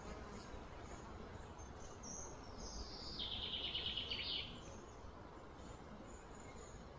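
A bird call over steady outdoor background noise: a few high chirps about two seconds in slide down into a rapid trill that stops abruptly a little past four seconds.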